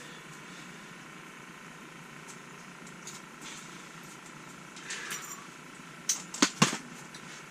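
Steady faint background hiss, with a few sharp clicks or knocks in quick succession about six seconds in.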